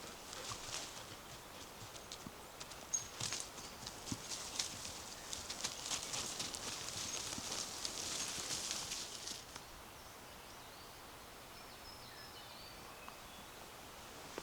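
Footsteps of a walker on a forest path, a steady run of light crunching steps that stops about two-thirds of the way through. After the steps stop, faint bird chirps can be heard.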